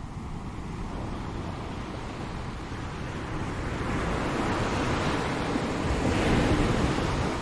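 Ocean waves breaking on a shore: a steady wash of surf that swells into a louder breaking wave over the second half, peaking about six seconds in, then begins to recede.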